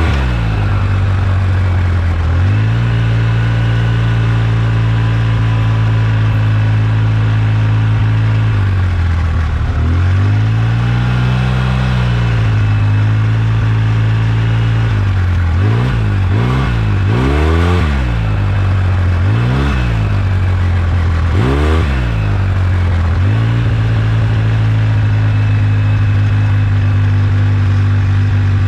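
Polaris RZR 800 S engine running steadily, then blipped through several quick revs in the middle before settling back. The owner is hunting a rattle from the rear end, which he suspects is the differential, the pinion nut or a CV joint.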